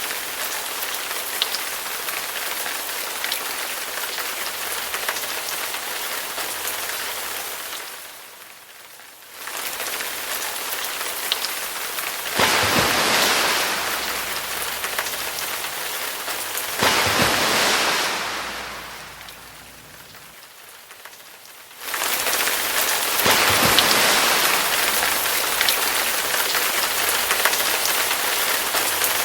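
Steady rain falling, a dense even hiss with scattered drop ticks. Twice it fades away to a low level and then cuts back in suddenly, once about a third of the way in and again about two-thirds in.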